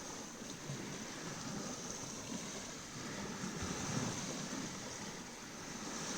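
Waves washing onto a beach with wind blowing, a steady wash of surf with no distinct single events.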